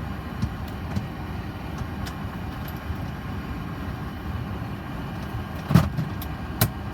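Steady low rumble of a Boeing 737 cockpit running on APU power, with two sharp clicks near the end.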